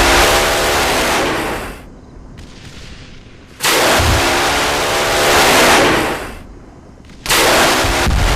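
Rockets launched one after another from attack helicopters, each starting as a sudden loud roar with a sweeping, swishing tone as it flies off, lasting two to three seconds. The first is fading out about two seconds in, a second starts about three and a half seconds in, and a third near the end.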